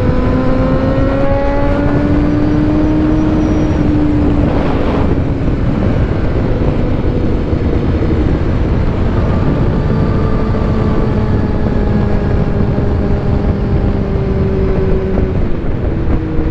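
Motorcycle engine running at road speed, heard from a helmet-mounted microphone over a heavy bed of wind rush. The engine note climbs gently over the first few seconds, eases off with a brief rush of noise about four to five seconds in, then holds steady at a slightly lower pitch.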